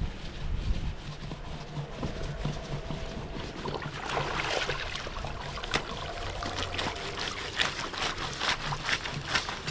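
River water running, with scattered sharp clicks and knocks that become frequent from about four seconds in.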